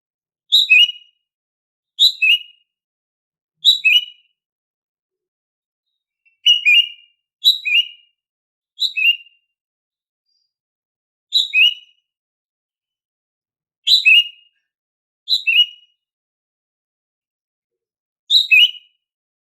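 Female greater green leafbird (cucak ijo) giving its everyday call: about ten short two-note whistled calls, each a higher note dropping to a lower one, spaced one to three seconds apart.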